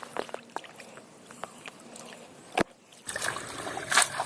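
Water sloshing and trickling, with scattered small clicks and a sharp click over halfway through. It grows louder about three seconds in, with a splash near the end.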